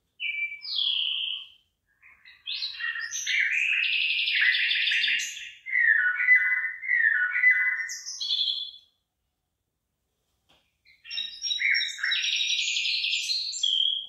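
A songbird singing a long, varied song of quick whistled notes and fast trills. It comes in three bursts with short silent gaps between them, the longest burst in the middle.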